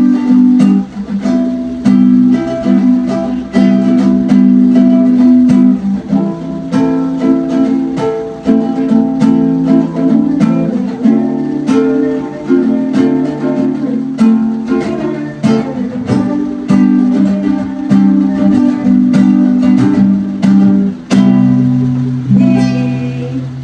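Instrumental music: an acoustic plucked-string instrument strumming and picking chords in a steady rhythm, with no singing.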